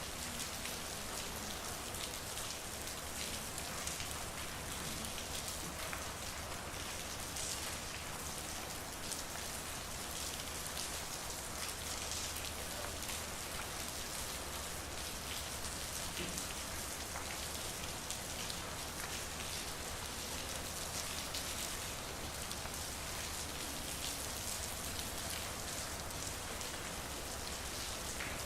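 Steady rain falling on a street, with countless small drops pattering on hard surfaces. A faint low hum sits beneath it.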